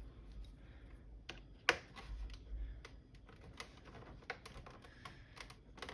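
Plastic bezel clips of an Acer KA240HQ monitor clicking as the front bezel is pried off the back casing: a string of irregular sharp clicks, the loudest about one and a half seconds in.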